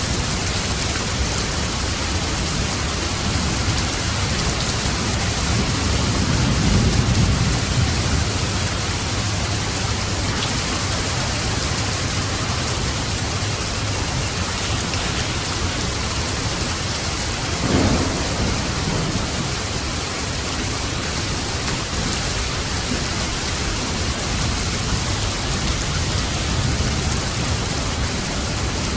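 Steady rain falling, with a low roll of thunder swelling about six seconds in and a sharper thunderclap about eighteen seconds in.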